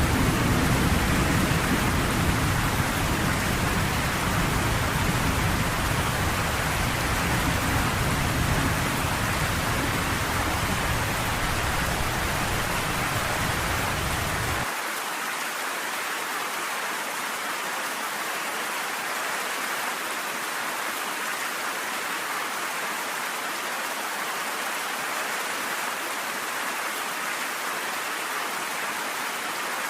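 Steady rain falling, an even hiss. A low rumble of thunder runs underneath it and cuts off abruptly about halfway through, leaving only the rain.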